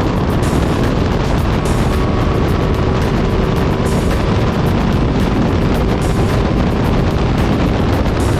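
Ducati Multistrada V4 Pikes Peak being ridden, its V4 engine running under a steady rush of wind noise on the microphone.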